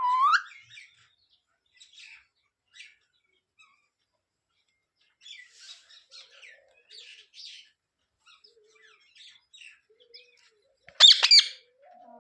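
Pet green parrot calling: a loud whistled call that glides up and down at the start, soft scattered chirps and chatter through the middle, and a loud harsh squawk about eleven seconds in.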